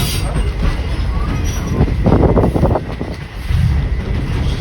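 Steady low rumble of a moving passenger train, heard from inside a carriage. Voices talk briefly about two seconds in.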